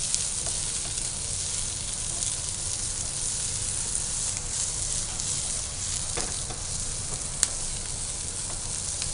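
Julienned onion and capsicum sizzling steadily in hot oil in a frying pan, stirred with a wooden spatula. One sharp click about seven seconds in.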